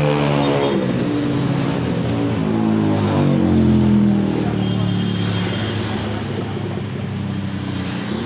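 A passing motor vehicle's engine, its pitch falling, rising and falling again, loudest about three to four seconds in, then fading.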